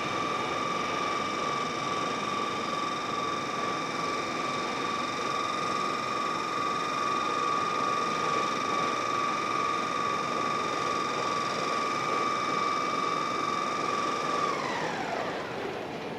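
Electric train at the platform giving a steady high-pitched whine over station background noise; about two seconds before the end the whine glides down in pitch and fades as it winds down.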